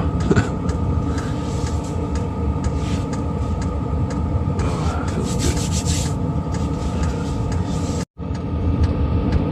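VEVOR all-in-one diesel heater running steadily: a deep combustion rumble under a constant blower hum, with faint clicks. The sound cuts out briefly about eight seconds in, then resumes.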